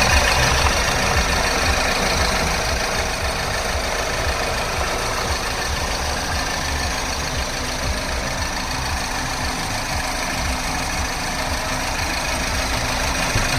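BMW car engine idling steadily.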